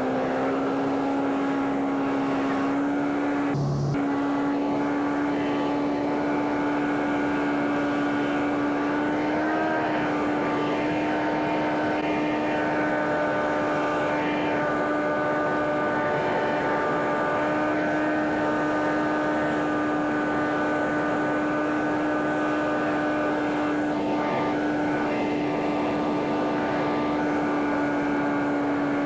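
Propeller airplane engine droning at a steady pitch, with a short break a few seconds in and a slight rise and fall in pitch about ten seconds in.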